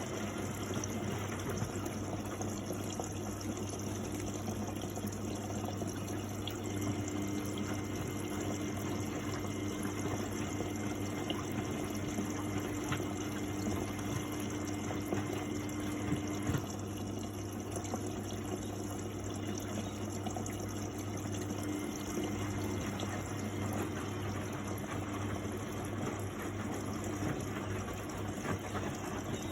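Miele Novotronic W828 front-loading washing machine in its Cotton 60 wash, water moving in the drum over a steady low hum. A steady tone comes in a few seconds in and cuts off suddenly after about ten seconds, then returns faintly for a few seconds later.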